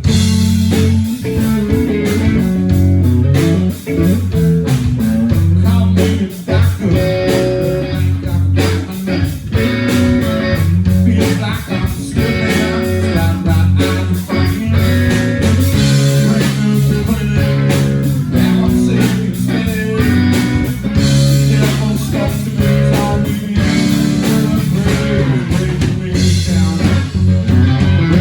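Live blues-rock band playing, led by guitar, with a steady drum beat.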